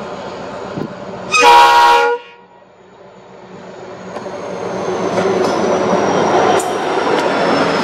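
An Indian Railways train horn sounds one short blast of under a second. A train's running rumble then builds steadily as it approaches, with a faint high whine slowly falling in pitch.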